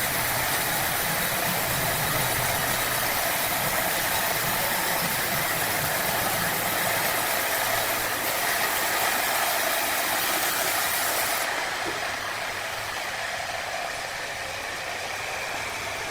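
Motor-driven wood-cutting saw running with a steady, loud mechanical noise and hiss. About twelve seconds in, the sharpest part of the sound drops away and it gets a little quieter.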